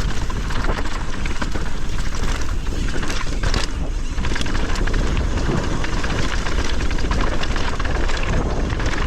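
Wind rushing over the camera microphone, with the tyres crackling and the bike rattling over loose dirt, as a mountain bike descends a trail at speed.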